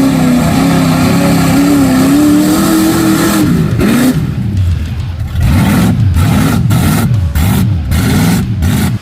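A mud bog truck's engine running loud at high revs, its pitch held high for the first few seconds. From about halfway, it revs up and down over and over in quick swings.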